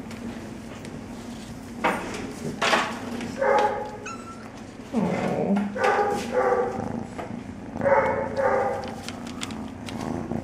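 A young kitten meowing again and again, about seven short mews, one of them sliding down in pitch, over a steady purring.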